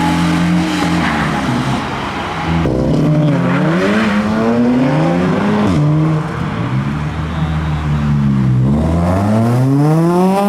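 Car engines revving as cars accelerate away, the pitch climbing and dropping again and again with the throttle and gear changes, ending in a long climbing rev.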